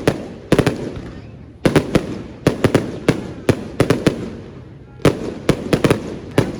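Fireworks going off: loud sharp bangs in quick irregular clusters, with a couple of brief lulls between volleys.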